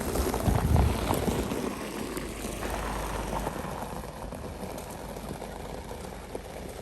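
Car moving slowly, with a steady rumble of engine and tyres and a louder low surge about half a second in.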